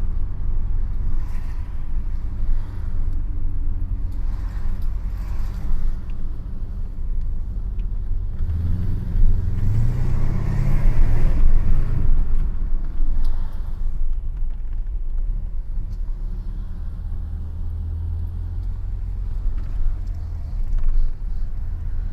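1980 Mercedes-Benz 500 SE's 5.0-litre V8 running with its mufflers deleted, a steady deep exhaust rumble while driving. About nine seconds in it accelerates, rising in pitch and growing louder for a few seconds, then settles back to a steady cruise.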